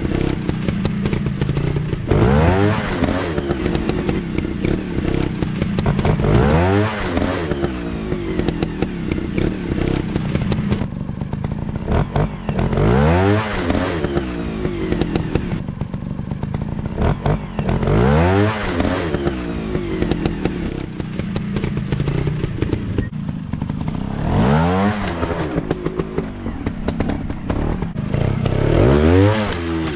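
Motocross dirt bike engines running, the pitch rising and falling back about six times, every four to six seconds, over a steady lower engine note.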